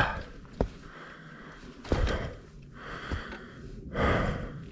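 A mountain biker breathing hard while pedalling, in heavy breaths about two seconds apart, with a few sharp clicks and knocks from the bike over the trail.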